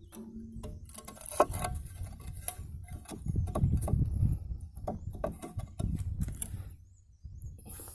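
Irregular knocks, taps and scraping of a cut soil-cement brick being handled and fitted into place, busiest in the middle and dying away near the end.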